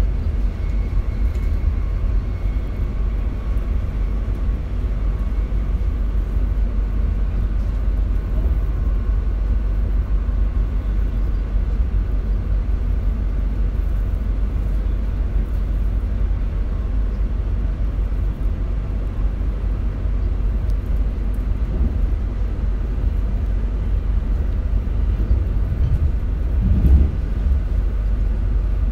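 Steady low rumble of an RER C commuter train running along the track, heard from inside the carriage, with faint steady tones above it. Near the end there is one brief louder bump.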